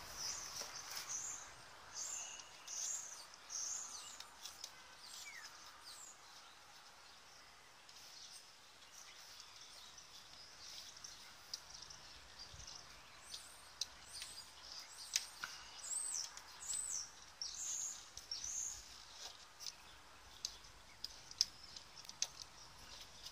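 Birds singing outdoors in short, high chirping phrases, in two bouts near the start and again past the middle, with scattered faint clicks from hands working at a motorhome's wall panel.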